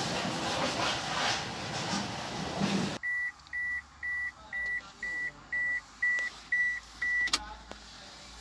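Engine running, heard close in the engine bay as a steady noisy hiss that cuts off abruptly about three seconds in. Then nine short, high electronic beeps, evenly spaced at about two a second, end with a sharp click.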